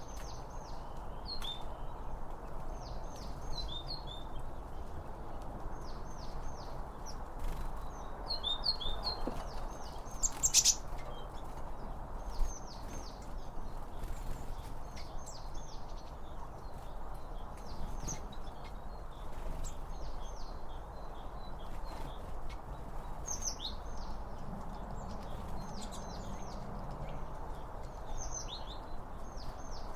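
Small songbirds chirping in repeated short runs of quick, high notes, every few seconds, over a steady background hiss.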